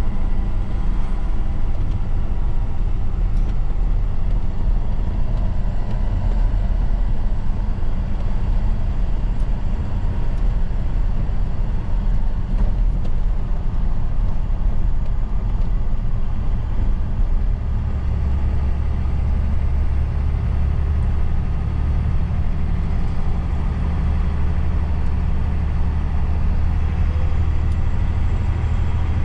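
Truck engine running steadily under way, with road noise. About two-thirds of the way through, the low drone grows stronger and deeper.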